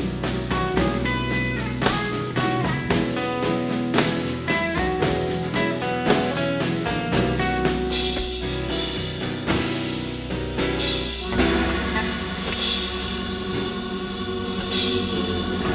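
Live rock band playing an instrumental passage, with drums and guitar over sustained chords. Cymbal crashes ring out several times in the second half.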